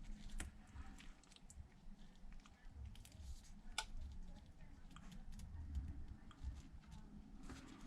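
Faint scattered clicks and taps of small repair tools and parts being handled at the bench, one sharper click about four seconds in, over a low steady hum.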